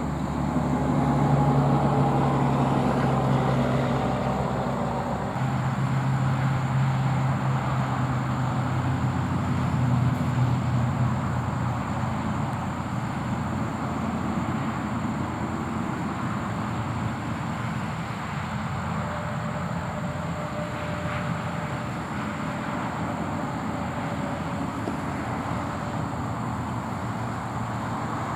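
Motor vehicle noise: a steady low engine hum over a broad rushing haze, swelling in the first few seconds and again around ten seconds in.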